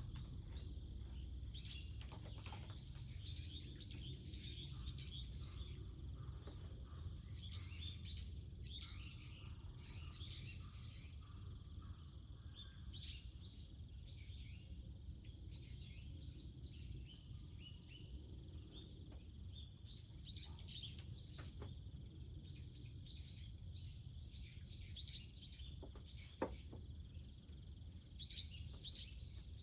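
Small birds chirping and twittering in quick repeated phrases, over a steady low rumble, with one sharp click about 26 seconds in.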